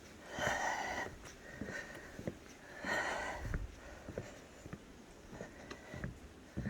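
Footsteps along a forest walking track, with two brief rustling bursts about half a second and three seconds in.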